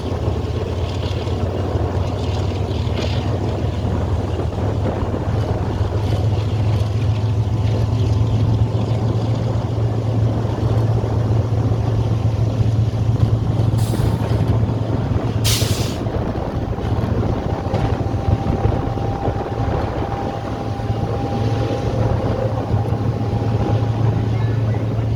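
Diesel locomotive of the Tezgam Express running steadily with a constant low hum. Two short hisses of air come about halfway through.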